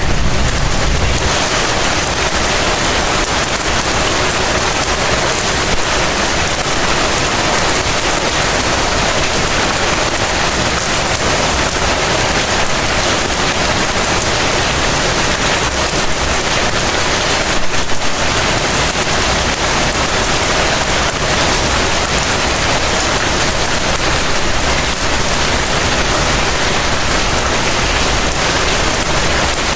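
Heavy rain falling in a steady, dense hiss, with a brief louder moment about two-thirds of the way through.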